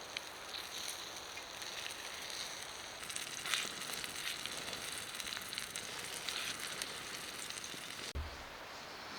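Food sizzling in a frying pan over a campfire, a steady hiss with small crackles and pops. A brief low thump comes about eight seconds in.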